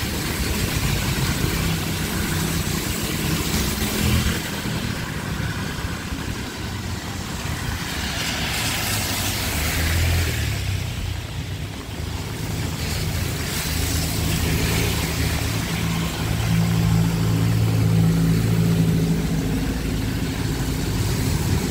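A motor vehicle's engine running on a wet road in heavy rain, with a steady hiss of rain and tyres on water. Twice, louder washes of hiss swell up and fade.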